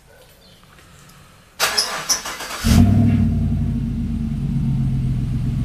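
Four-wheel-drive truck engine starting cold in the snow. The starter cranks for about a second, then the engine catches with a surge and settles into a steady idle.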